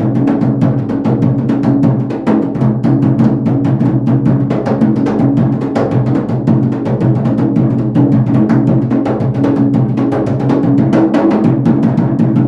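Atabaque hand drum playing a fast, steady rhythm of rapid strokes as accompaniment for an Umbanda ponto.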